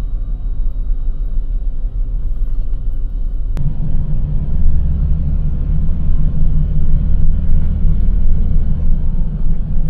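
Small box truck's engine and road noise while driving, a steady low drone. A single click comes about three and a half seconds in, after which the engine drone gets louder.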